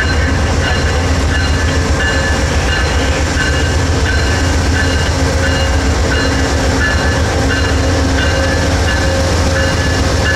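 Train running with a steady, loud low rumble and a high tone that cuts in and out about once a second.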